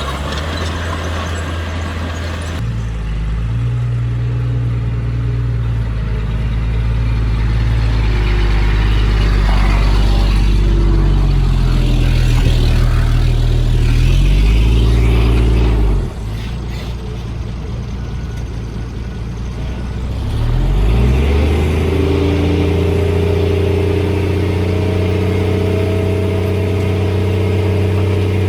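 Heavy-equipment diesel engine working under load. It revs up a few seconds in, drops back suddenly a little past halfway, then revs up again and holds.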